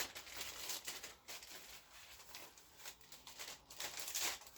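Plastic parts bag crinkling and rustling in the hands as it is handled and opened, a run of short crackles.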